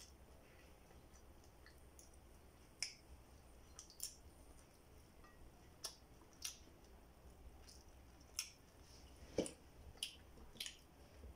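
Close-up eating sounds: hand-fed rice and fish being chewed, with scattered short, wet mouth clicks and smacks, about ten in all, the loudest about two-thirds of the way through.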